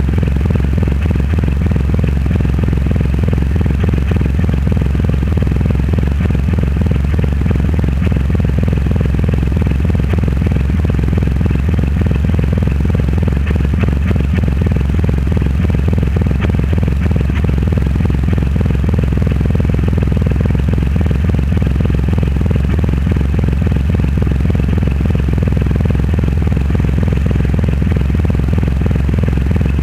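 Triumph Rocket 3 Roadster's 2.3-litre three-cylinder engine running through a custom exhaust at a steady, unchanging pitch.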